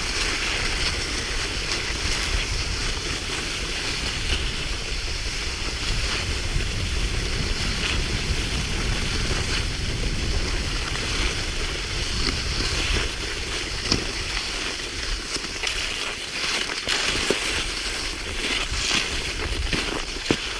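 Cross-country skis sliding along a groomed ski track in cold snow, with poles planting in the snow, making a steady hiss, and wind rumbling on the microphone.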